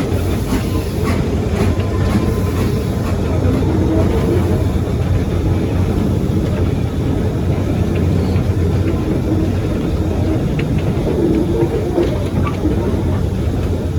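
Steam-hauled heritage train running, with a steady rumble of wheels on the rails that holds even throughout.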